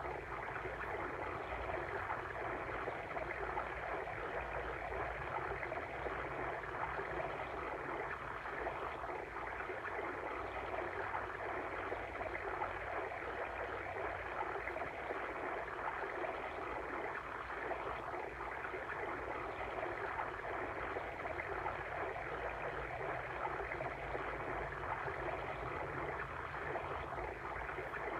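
Flowing stream water, a steady babbling rush of running water with no change in level.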